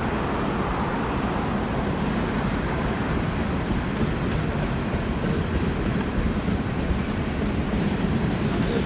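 Freight train cars rolling past, a steady rumble of steel wheels on the rails. A faint high wheel squeal joins near the end.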